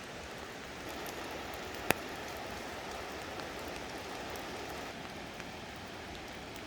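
Steady patter of rain and water dripping from wet branches, with one sharp, loud drip-like tick about two seconds in.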